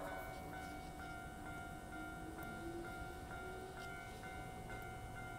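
A Hankyu 7000 series electric train standing at the platform, with a steady whine. Over it, a faint two-tone electronic signal alternates about twice a second.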